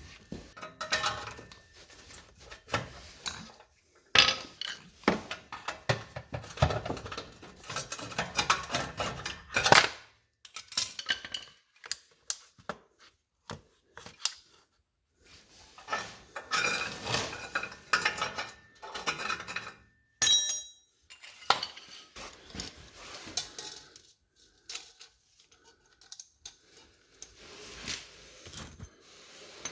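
Metal tools and parts clinking and clattering as they are handled, in irregular clusters of knocks, with a short ringing metallic ping about twenty seconds in.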